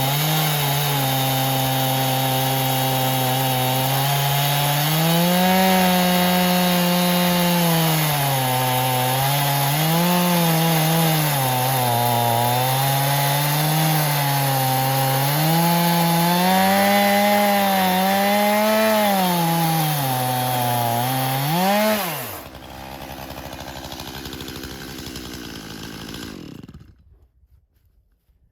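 Two-stroke chainsaw in an Alaskan chainsaw mill ripping lengthwise through a log, its engine speed wavering up and down under the load of the cut. About three-quarters of the way through, the pitch rises briefly, then drops and winds down to silence.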